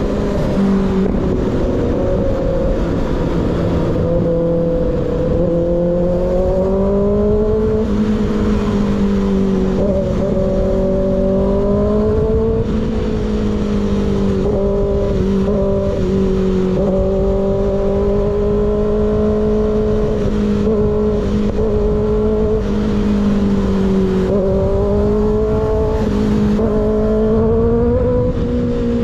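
Sport motorcycle engine with an unbaffled slip-on exhaust, heard from onboard while riding, under wind noise. The engine pitch climbs gradually several times as the throttle is held, then drops back with gear changes or easing off.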